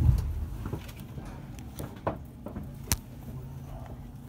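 Cabin sound of an electric express train starting to pull away from a station: a steady low rumble from the running gear, with a thump right at the start and sharp knocks about two and three seconds in.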